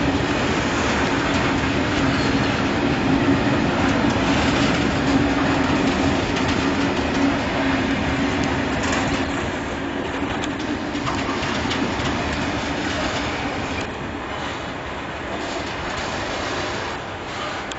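Freight train of covered hopper wagons rolling past, wheels rumbling and clacking over the rail joints, with a steady hum that fades about halfway through; the noise slowly dies away as the train pulls out.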